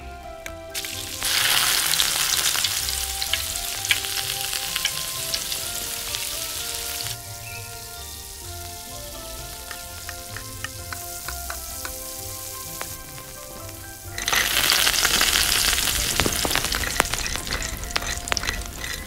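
Food frying in hot oil in a miniature pan, sizzling and crackling. It starts about a second in, drops back to scattered crackles for several seconds in the middle, and comes up loud again a few seconds before the end, over soft background music.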